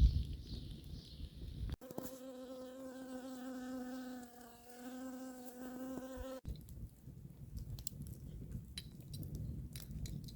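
A flying insect buzzing in a steady, even hum for about four and a half seconds, wavering briefly midway. Before and after it comes a low rumbling noise with faint scattered ticks.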